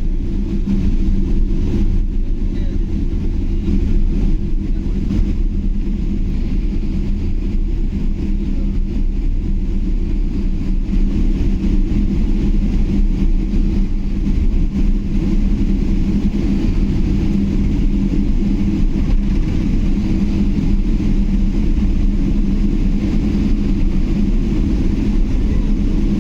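Steady low rumble of an airliner's engines and airflow heard from inside the cabin, with a constant low hum under it.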